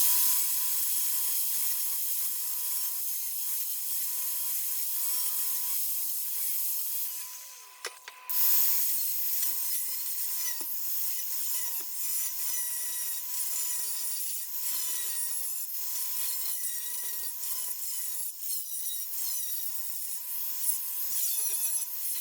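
Flux-core wire welder arc crackling and sizzling in two runs, stopping for about a second around seven and a half seconds in, then starting again.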